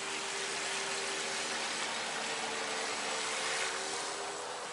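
Electric RC V-hull boat running on the water: a steady motor whine of several pitched lines that shift slightly, over an even hiss.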